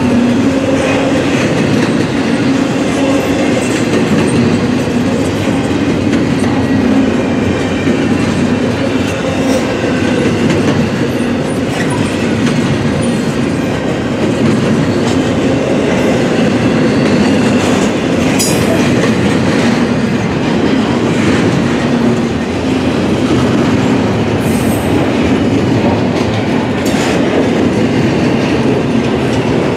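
Freight train cars rolling past on the rails, steady and loud, with three brief high-pitched wheel squeals in the second half.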